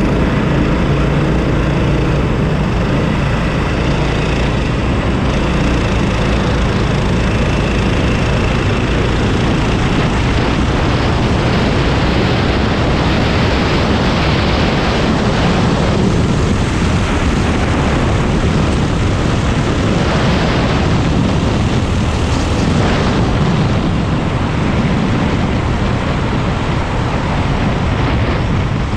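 Predator 390 single-cylinder four-stroke kart engine running hard under racing load, a loud steady drone with a rough, buzzy edge that stays near full throttle throughout.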